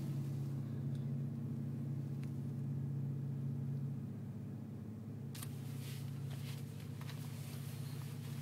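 Steady low engine drone with a constant pitch, heard from inside a car cabin while the ferry crosses. About five seconds in, a rustling, clicking noise joins it.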